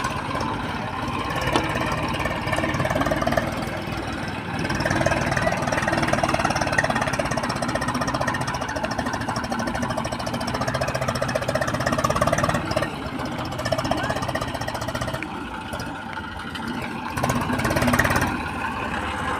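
Tractor engine running with a steady beat, getting louder about four seconds in.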